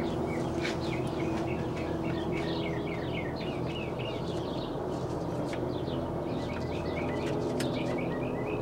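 Birds chirping in many short, quickly repeated calls, over a steady low hum.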